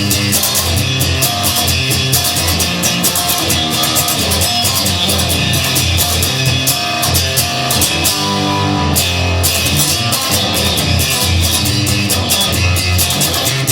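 Instrumental rock passage: guitar over a drum kit, with no singing. The drums drop out for about a second two-thirds of the way through, then come back in.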